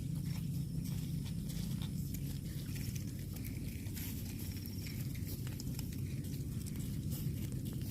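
Cow grazing: quick irregular crunching and tearing of grass as it bites and chews, over a steady low hum.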